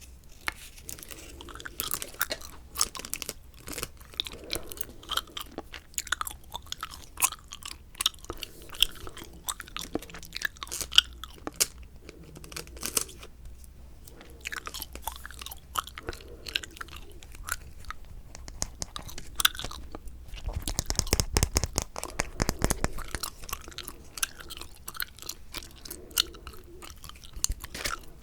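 Close-miked chewing of a wad of bubble gum: a steady run of wet clicks and smacks, with a denser, louder stretch about two-thirds of the way through.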